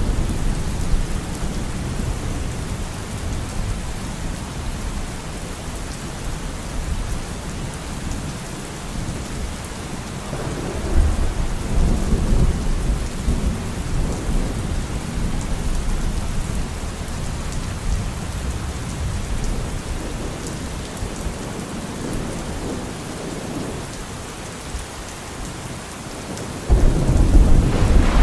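Steady heavy rain falling, with rolling thunder. A low rumble swells about ten seconds in, and a louder, sudden thunderclap comes near the end.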